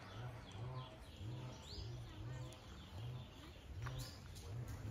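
Birds chirping and calling in short rising notes, over a low pulsing sound that repeats about twice a second.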